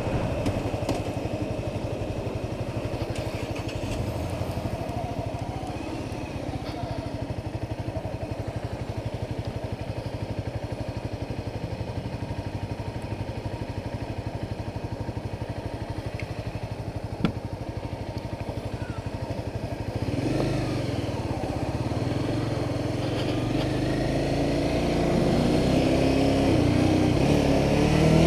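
Honda CBR300R's single-cylinder engine running under way with wind noise, steady for most of the time, then getting louder and rising in pitch over the last several seconds as it accelerates. A single short click sounds about two-thirds of the way through.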